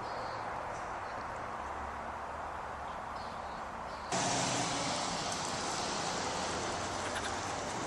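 Steady outdoor background noise with no distinct event, which jumps abruptly louder and brighter about four seconds in.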